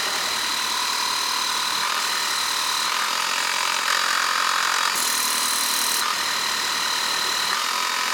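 Lippert Power Pro Max battery-powered portable pressure washer running, its pump whining steadily over the hiss of the water spray. The hiss gets brighter and louder for about a second, about five seconds in.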